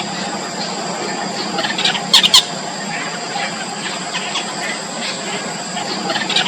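Four-day-old nestling birds cheeping over and over in short high calls, the begging of chicks in the nest. Two loud, sharp bursts come close together a little after two seconds in.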